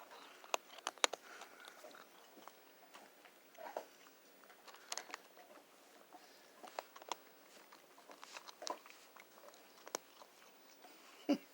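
Cat eating from its bowl close up: irregular small crunches and clicks of chewing, scattered through.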